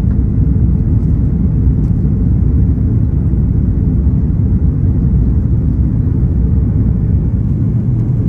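Cabin noise inside an Airbus A340-600 under way: a loud, steady, deep rumble of its Rolls-Royce Trent 500 engines and airflow, without change in pitch or level.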